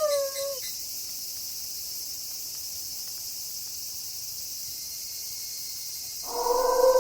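A wolf howl ends with a downward slide of pitch in the first half-second, leaving a steady, high-pitched chirring of night insects. Near the end another wolf howl begins, held on one pitch.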